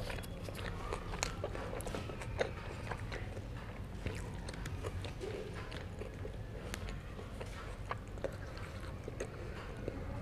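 A person chewing herring close to the microphone: scattered mouth clicks and smacks, irregular, over a steady low rumble.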